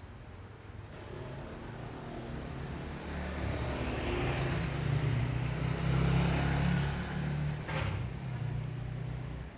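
A motor vehicle passing on a road, its engine hum and tyre noise building to a peak about five to seven seconds in, with a short sharp click near the end.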